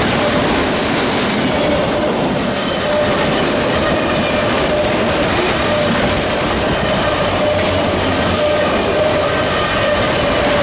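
Freight train rolling past close by: a steady, loud din of wheels on rail, with a steady squealing tone running through it.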